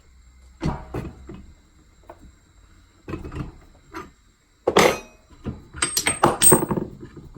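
Steel ball joint press and its adapter cups clanking and clinking as the press is backed off and handled on the steering knuckle. There are scattered knocks, a loud clank about five seconds in, then a quick run of sharp metal strikes with a short ring.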